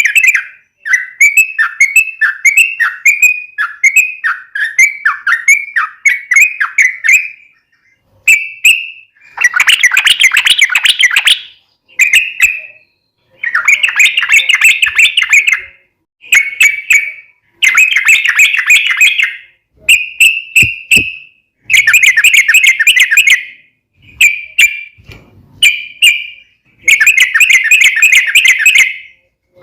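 Yellow-vented bulbul (trucuk) song: at first a run of quick separate notes, then bursts of dense, bubbly chattering phrases one to two seconds long, separated by short pauses.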